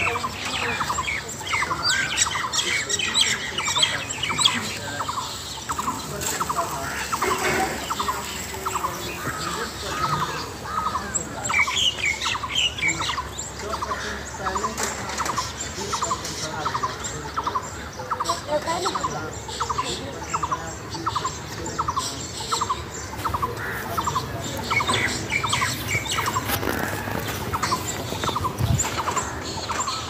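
Birds calling outdoors. One bird repeats a short note evenly, about one and a half times a second, while others chirp and twitter over it.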